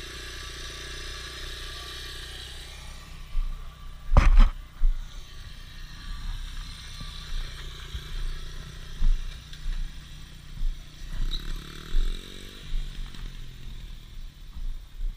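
Small dirt bike engine running steadily, with one loud knock about four seconds in and scattered low bumps after it; near the end the engine revs up, its pitch rising.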